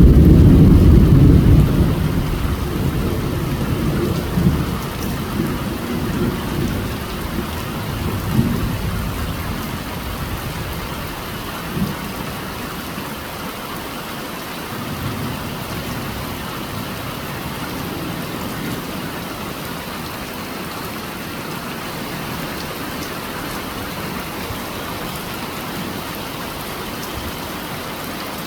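A thunderclap's low rumble, loudest at the start and rolling away over about ten seconds with a few smaller swells, over steady heavy rain that carries on after it.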